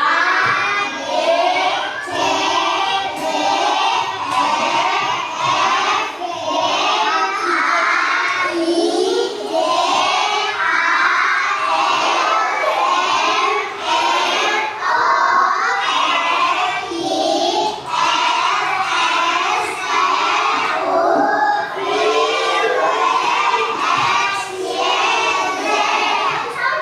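A roomful of young schoolchildren shouting and chanting together, many voices at once, loud and nearly without pause.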